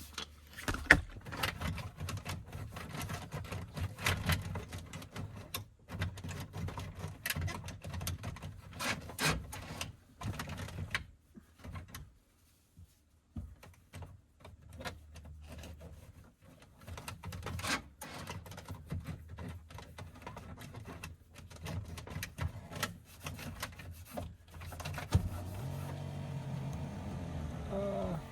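Irregular clicks, taps and knocks of a truck door panel and its trim being handled and worked on, with a quieter lull midway. A steady hum starts near the end.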